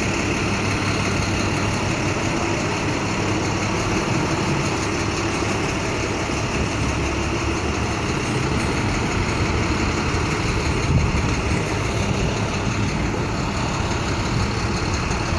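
Motor vehicle engine idling steadily.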